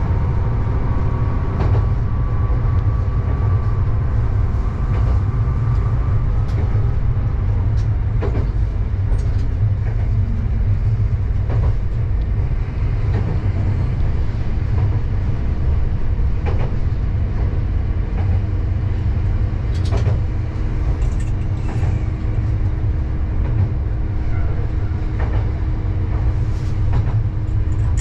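Diesel railcar running along the line, heard from inside the train: a steady low rumble of engine and wheels on rail, with occasional sharp clicks. A faint steady hum joins about halfway through.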